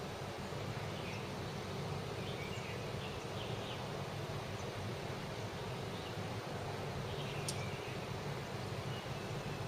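Steady low hum of city background noise, with faint, short high-pitched bird chirps scattered through it.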